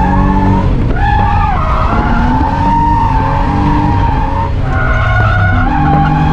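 Barra-swapped R31 Nissan Skyline drift car sliding, its Ford Barra straight-six running hard under a loud, wavering tyre squeal. The squeal dips and breaks about a second in and again around four and a half seconds in.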